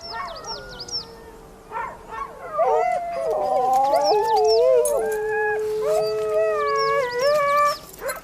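A pack of huskies howling and yelping together, several long wavering howls overlapping, loudest from about two and a half seconds in. The dogs are restless, eager to set off on a run.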